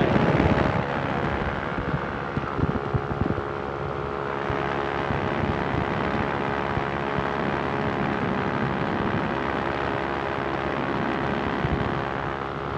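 Quicksilver ultralight's two-stroke engine droning steadily in flight, with wind rushing past the microphone.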